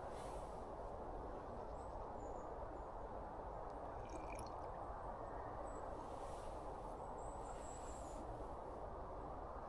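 Steady low background hiss, with a few faint, short high-pitched chirps and a brief cluster of faint ticks about four seconds in.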